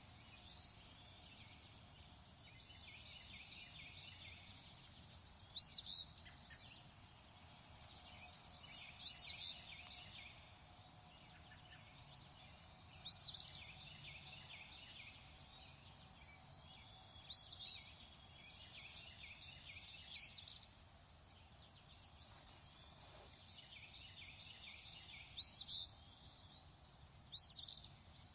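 Birds calling: a short, loud, high-pitched call that sweeps upward repeats every three to four seconds, over fainter chirping.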